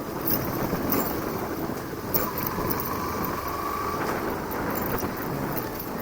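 Motorcycle running along a road, with steady engine and road noise.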